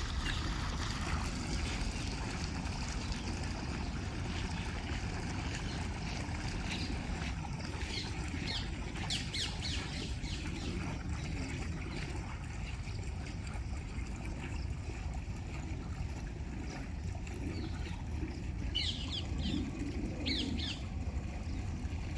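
Steady low rumbling outdoor noise with a few short, high bird chirps, some about nine seconds in and a cluster near the end.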